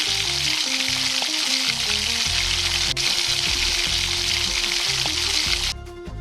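Food sizzling in a hot pan, a steady loud hiss that cuts off suddenly near the end, with soft background music underneath.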